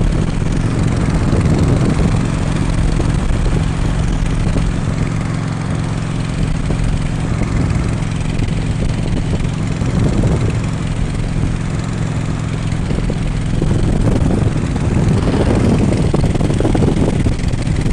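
Harley-Davidson Road King's V-twin engine running at a steady cruise, mixed with wind rush on the microphone.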